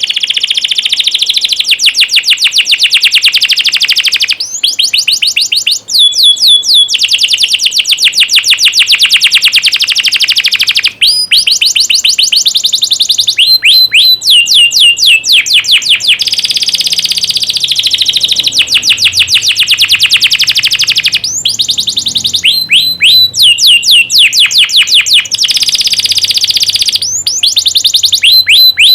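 Domestic canary singing loudly: long, very rapid trills of repeated notes alternating with runs of quick downward-sweeping whistles, broken by a few brief pauses.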